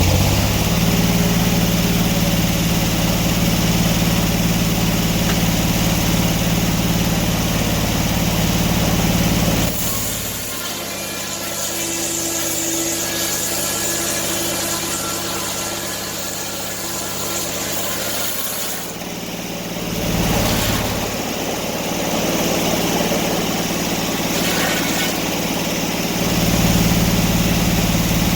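A large engine running steadily. About ten seconds in its deep hum drops away and a quieter, higher whine takes over for about ten seconds. The hum comes back briefly, then returns fully near the end.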